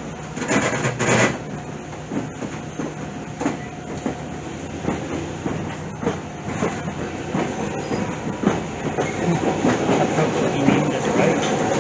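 Passenger train running, heard from aboard a coach: a steady rumble with irregular wheel clacks over the rail joints, growing louder toward the end.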